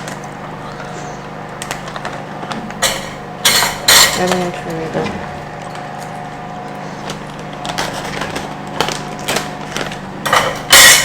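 A few short rattling, rustling bursts of sesame seeds being handled and sprinkled as a smoothie topping, the last one the loudest, over a steady low hum.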